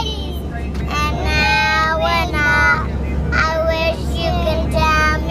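Young girls singing a song in high voices, in phrases of long held notes with short breaks, over the steady low hum of an airliner cabin.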